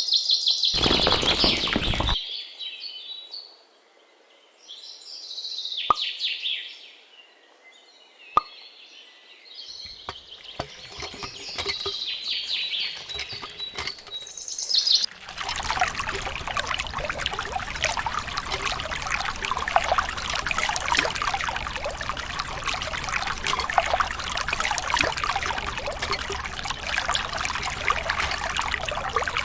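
Birds chirping through the first half, then water pouring in a steady stream from about halfway on, as from a miniature homemade water pump.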